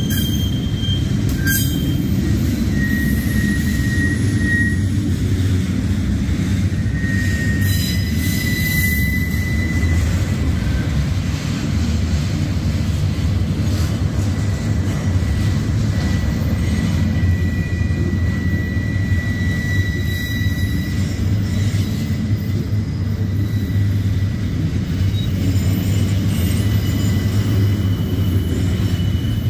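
Double-stack intermodal container well cars rolling past: a steady low rumble of steel wheels on rail, with faint high-pitched wheel squeals coming and going several times.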